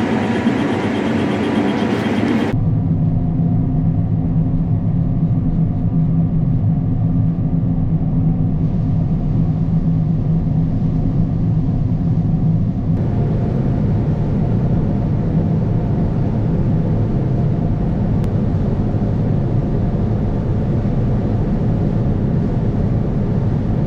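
Combine harvester running steadily while harvesting soybeans, a continuous low machine drone, with abrupt shifts in tone a couple of seconds in and again about halfway through.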